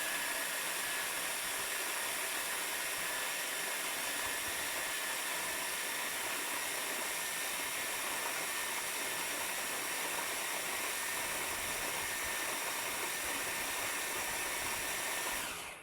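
Electric blender running steadily as it blends the onion mix into a thick paste, a constant whirring hiss, then switched off and cutting out suddenly near the end.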